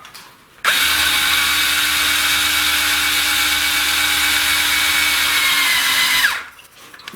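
Electric drill spinning a VAZ 2106 engine's oil pump shaft through a splined drive shaft to prime the oil system. It starts just under a second in, runs steadily at an even speed for about five and a half seconds, then winds down.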